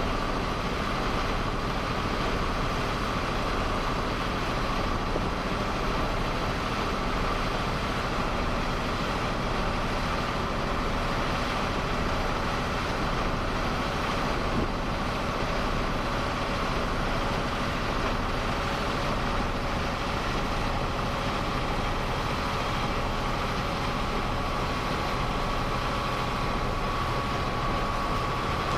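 A boat's engine running steadily at constant speed, with a steady whine over the engine noise.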